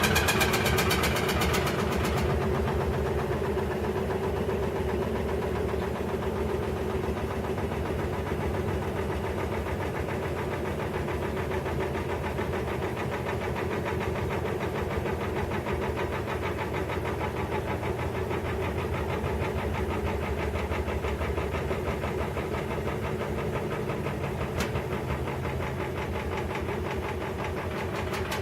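Maytag Centennial top-load washing machine running, a steady mechanical hum with a fast, even rattle. It is a little louder in the first couple of seconds, then settles.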